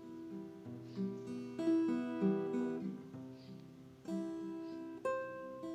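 Background music on acoustic guitar: plucked and strummed chords that ring on, a new one roughly every second.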